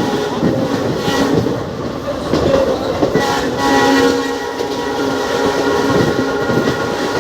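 Train running at speed behind twin WDP4D diesel locomotives, wheels clattering on the rails, with a steady drone of tones throughout.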